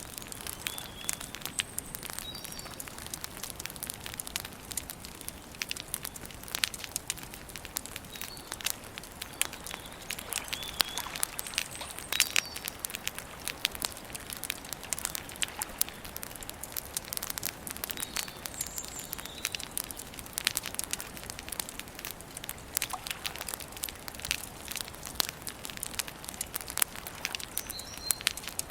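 Campfire burning, the wood crackling and popping in quick irregular snaps. Birds give short high chirps now and then.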